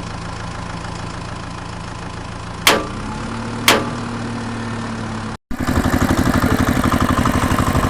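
Tractor engine idling steadily, broken by two sharp clicks about a second apart. After a brief cut about five seconds in, a louder engine chugs in an even rhythm of about four to five beats a second.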